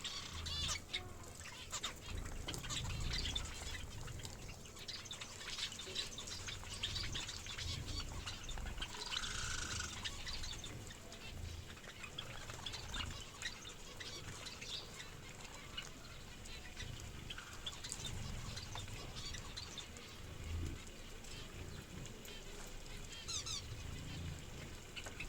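Aviary birds chirping and twittering throughout, many short high calls overlapping.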